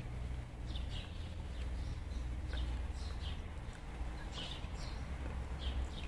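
Small birds chirping: short, high chirps repeating every half second or so, over a steady low hum.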